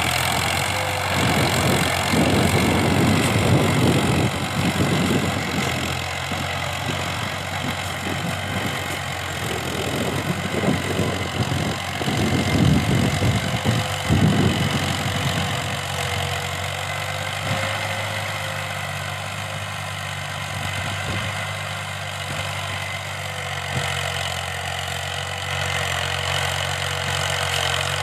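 New Holland Ghazi 480 tractor's diesel engine running steadily under load while pulling an 11-tine cultivator. Rough, uneven rumbling noise rises over the engine through the first half and eases off after about fifteen seconds.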